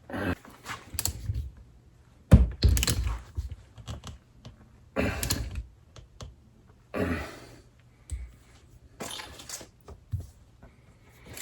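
Fork parts and hand tools being handled and set down on a workbench: a run of irregular knocks and clatters, the loudest about two seconds in.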